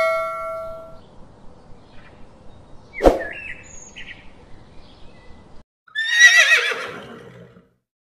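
A horse whinnying about six seconds in: one wavering call that falls in pitch. Before it, a ringing ding fades out at the start and a sharp click sounds about three seconds in.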